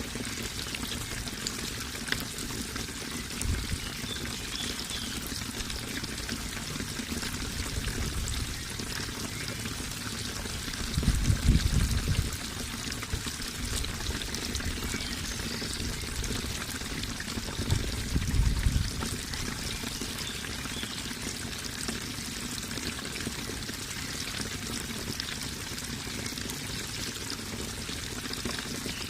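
Running water pouring and trickling steadily. Twice, a short low rumble rises briefly over it.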